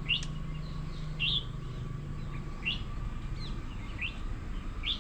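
A bird calling with short, rising chirps, one about every second and a half, over a low steady hum that fades about halfway through.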